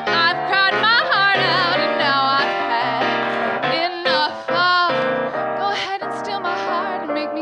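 A woman singing a soul-pop song to live piano accompaniment, her voice bending between notes with vibrato.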